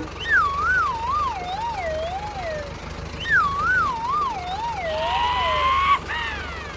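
A siren-like electronic warbling tone that wobbles up and down while sliding steadily lower in pitch, twice, each about two and a half seconds long. A shorter rising tone follows near the end.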